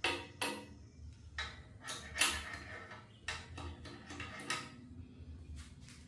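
Metal tools and parts clinking against metal in a string of irregular sharp clinks, several ringing briefly, from hand work on an LS engine on its stand.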